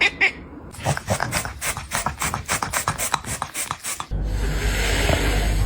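A quick run of scratching or rasping strokes, about five a second, giving way about four seconds in to a steady hiss with a low hum.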